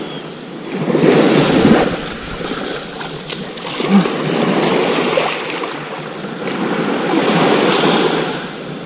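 Waves breaking and washing up the beach in slow surges every few seconds, with wind buffeting the microphone.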